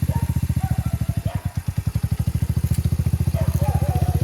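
Motorcycle engine running at low revs with a steady, even exhaust beat. It sags and slows briefly about a second and a half in, then picks back up, as the engine takes the load while a learner lets the clutch out in gear.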